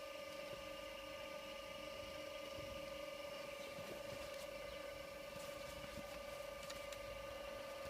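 Steady electric motor hum from an industrial sewing machine, running without stitching, with a few faint irregular clicks.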